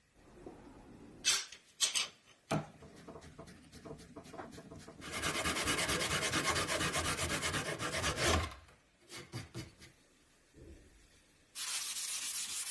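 Wood being rubbed down by hand with an abrasive: quick, even scraping strokes, loudest from about five to eight seconds in. Two sharp knocks come between one and two seconds in, and a short burst of hiss comes near the end.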